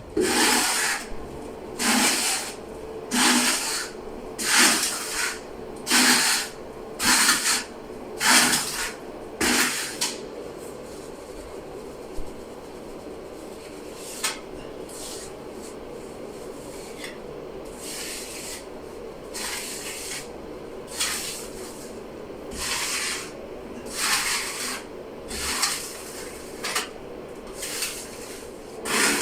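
Repeated scraping strokes, about one a second, that stop for several seconds midway and then start again, over a faint steady hum.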